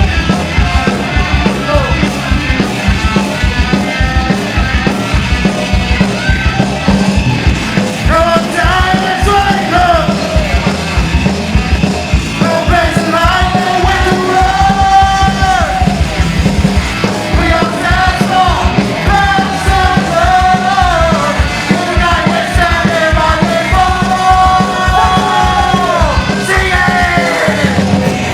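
Live punk rock band playing a fast, loud song: pounding drums and distorted guitars, with shouted vocals coming in about eight seconds in.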